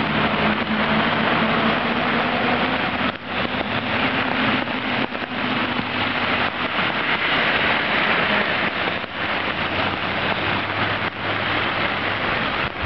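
Flood water rushing in a steady, loud wash of noise, with a faint low hum beneath it.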